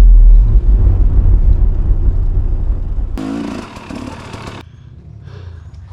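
Motorcycle riding noise: a very loud, low rumble of engine and wind that stops suddenly about three seconds in, followed by quieter road noise that fades out.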